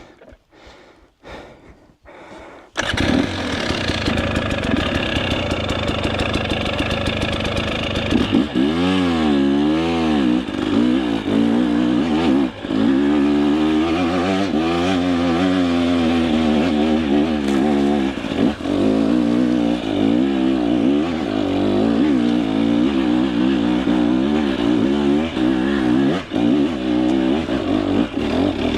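Two-stroke dirt bike engine comes in suddenly about three seconds in and runs hard. From about eight seconds it revs up and down over and over, the throttle worked on a steep, rough climb.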